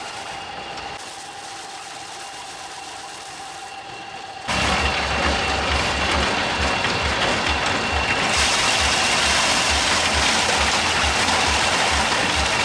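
A small engine running steadily, then suddenly much louder and harsher about four and a half seconds in, with a rapid low pulsing under the noise.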